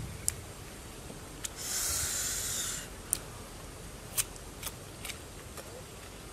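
Crisp raw palm heart being bitten and chewed: a rasping crunch lasting about a second, about two seconds in, and a scattering of short, sharp crunches.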